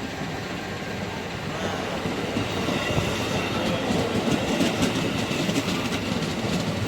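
JR 205 series electric commuter train pulling into a station: wheels rolling over the rails, growing louder as it draws near, with a quick clickety-clack of wheels over rail joints from about halfway through.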